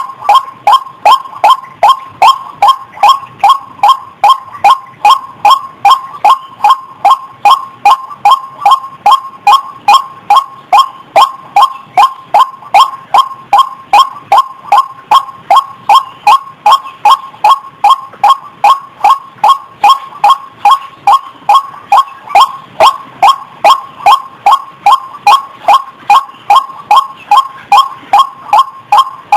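White-breasted waterhen (ruak-ruak) calling an even, unbroken run of short, loud 'wak' notes, about two to three a second.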